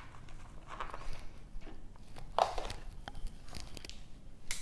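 A few short rustles and taps of small objects being handled, the loudest about two and a half seconds in.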